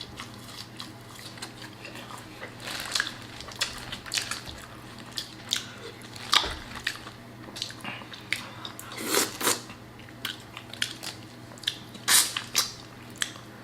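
A person eating close to the microphone, with wet chewing, lip smacks and sharp little clicks coming irregularly, about one or two a second.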